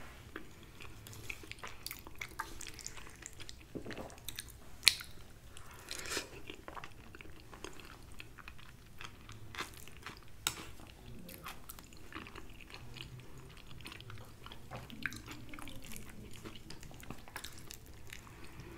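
Close-miked chewing and wet mouth sounds of a person eating soft bread rolls and meatloaf, with many small sharp clicks scattered through, one louder click about five seconds in.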